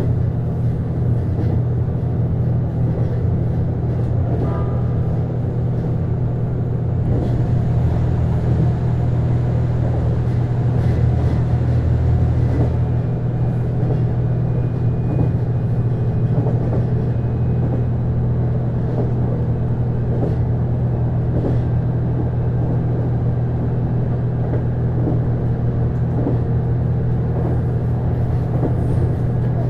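JR East HB-E210 series hybrid train running, heard inside the passenger car: a steady low drone from the Komatsu DMF15HZB-G diesel engine-generator over rolling wheel-on-rail noise, with faint scattered clicks.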